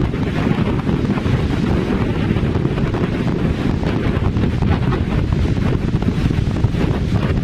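Strong, gusty wind buffeting the microphone in a steady heavy rumble, with the rapid rattling flutter of a Hilleberg Nallo tent's fabric shaking in the gusts.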